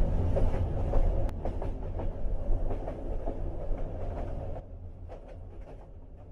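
Train running on rails: a low rumble with scattered wheel clicks, fading out. The higher hiss cuts off about four and a half seconds in, leaving a quieter rumble and clicks.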